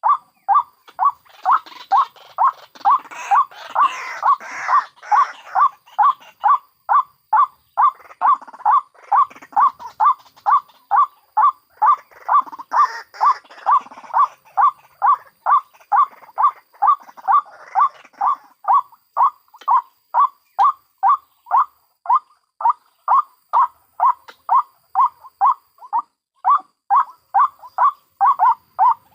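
White-breasted waterhens calling: a loud, monotonous note repeated about twice a second without a break, with a harsher, scratchier chattering over it for the first few seconds and again about halfway through.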